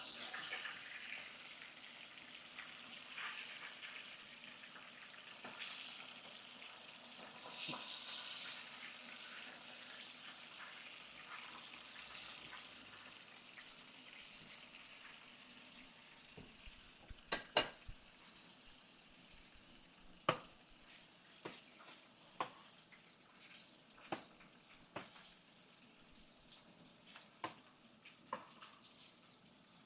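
Fish frying in hot oil in a pan, a steady sizzle that slowly fades. In the second half come a number of sharp clicks and knocks.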